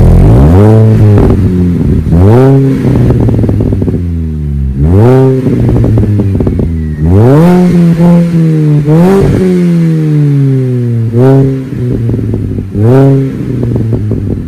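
Mini Cooper S R53's supercharged 1.6-litre four-cylinder, breathing through a Gravity Systems aftermarket exhaust, being blipped from idle over and over when warm: about seven sharp revs that rise and drop back, one held longer in the middle and falling away slowly.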